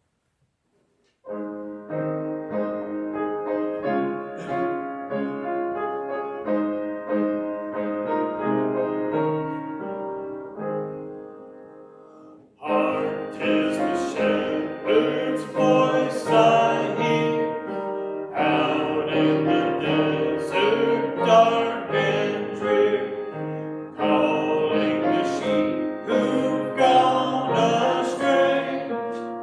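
Piano playing a hymn introduction, fading out about twelve seconds in; then a congregation starts singing the hymn with piano accompaniment.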